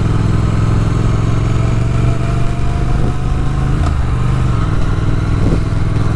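2021 Triumph Thruxton RS's 1200 cc parallel-twin engine running steadily while riding. Its pitch rises slightly early on, then drops about four and a half seconds in.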